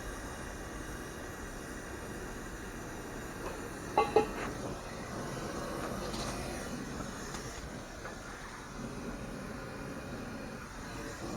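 Steady hissing work noise, with two sharp clanks close together about four seconds in that ring briefly like struck metal.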